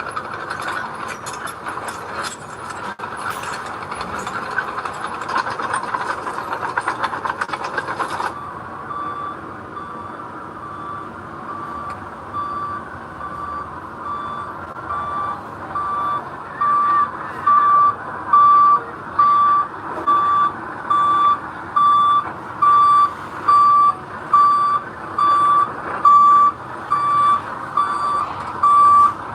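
Heavy machinery running with dense metallic clattering, which stops abruptly about eight seconds in. A construction vehicle's reversing alarm then beeps steadily about once a second over engine noise, getting louder near the middle as the machine backs closer.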